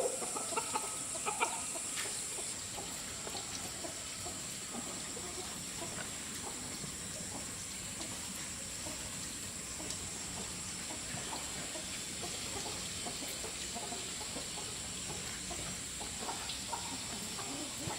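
Chickens clucking sporadically, most in the first couple of seconds, over a steady high-pitched hiss.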